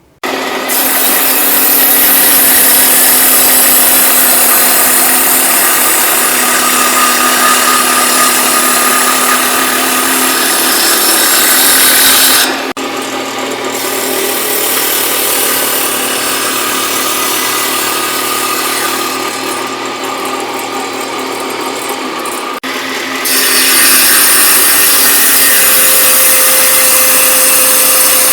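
Woodworking power tools running on pine 2x4 stock: a steady loud machine drone with wood noise, in three stretches that change suddenly about 12 seconds in and again near 23 seconds, the middle one quieter.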